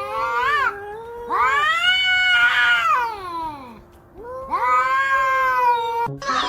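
Two cats yowling in long, drawn-out howls that rise and fall in pitch. At first the two voices overlap, then come two separate long yowls, each lasting about two seconds.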